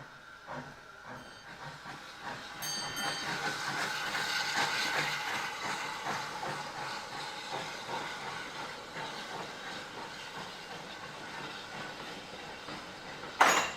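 A train running slowly past on the line, wheels knocking in a regular beat over the rail joints and a steady high squeal from the wheels, swelling as it nears and then slowly fading. A single sharp bang near the end.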